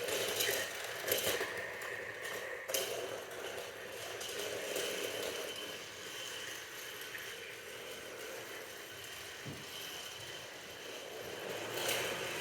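Toy train running along its track: a steady rattling whir with a few sharp clicks in the first three seconds and another cluster near the end.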